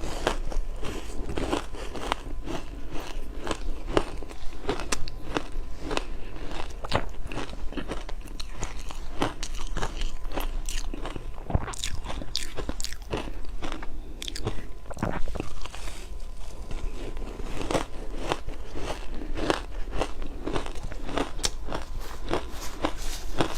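Ice being bitten and chewed close to the microphone: a steady run of sharp, irregular crunches and cracks from the teeth breaking up butterfly-shaped ice pieces.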